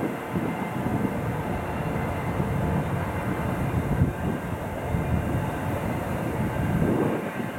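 Double-stack intermodal train's well cars rolling past: a steady rumble of steel wheels on rail.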